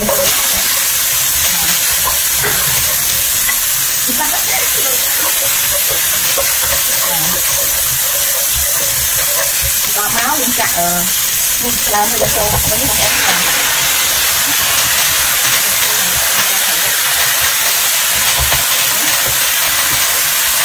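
Garlic, red chilli and spring onion sizzling in hot oil in a nonstick wok, stirred with a plastic spatula. About thirteen seconds in, the sizzle grows louder and harsher as sliced pork liver goes into the pan.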